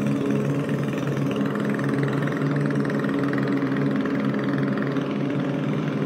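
Boat engine from a Mitsubishi L300 van, fitted to a racing boat, running steadily at a constant pitch.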